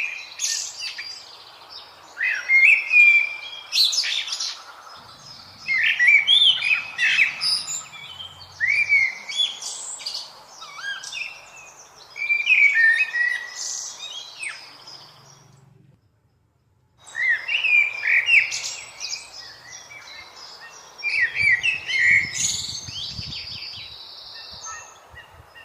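Birds chirping and calling in busy bursts of quick, rising chirps every couple of seconds. About two-thirds of the way in, the sound cuts out completely for about a second, then the chirping resumes.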